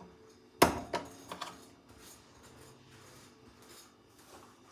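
Metal clicking while the screws are taken out of a toaster oven door: one sharp clink about half a second in, then two lighter clicks, then only quiet handling.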